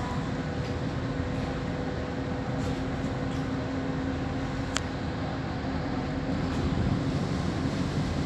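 Large ship's engines running with a steady low drone and hum, one short click about halfway through.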